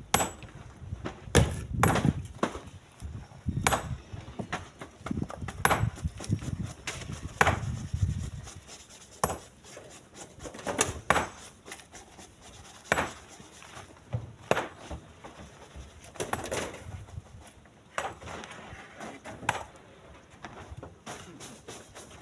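Split stones thrown one after another into a truck bed, each landing with a sharp knock about every one and a half to two seconds.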